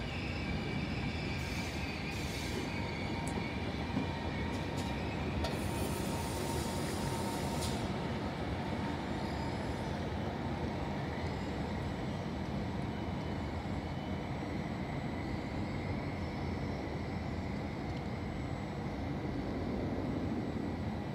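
E.464 electric locomotive heading a regional train as it approaches and rolls slowly into the platform: a steady rumble of the train with faint high-pitched wheel squeal.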